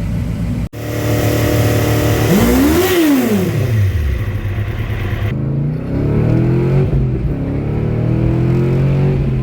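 High-powered car engines in quick clips. About two seconds in, one runs past with its pitch rising and then dropping. About five seconds in, another engine revs up steadily.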